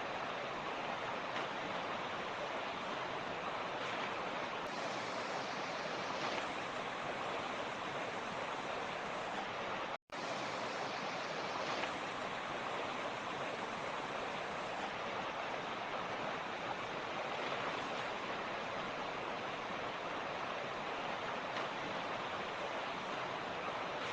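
Mountain stream rushing steadily over rocks, a dense even water noise. About ten seconds in, the sound cuts out for an instant and comes straight back.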